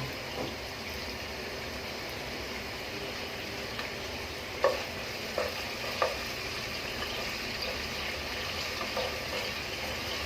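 Chopped onion with whole cinnamon, cardamom and cloves sizzling steadily as it fries in hot oil, with a few clinks of a spoon stirring in the pot around the middle.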